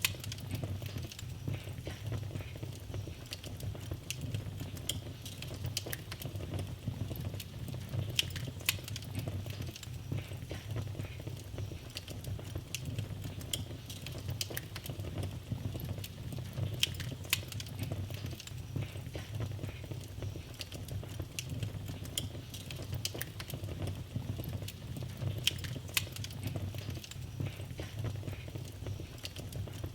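Wood fire in a fireplace crackling softly: irregular sharp pops and snaps over a steady low rumble of burning.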